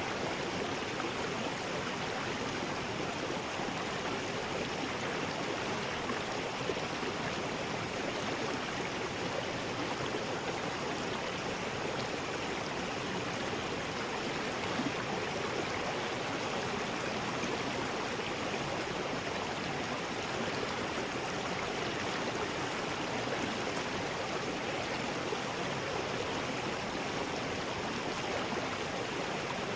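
River rapids: a steady rush of water over rocks.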